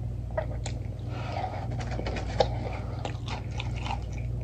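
A person chewing and biting food close to the microphone: irregular small wet clicks and crunches, one sharper about two and a half seconds in, over a steady low hum.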